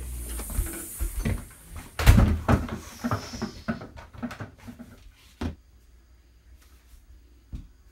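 Knocks, bumps and rustling of someone moving about, the loudest knock about two seconds in, then quieter with a couple of single knocks.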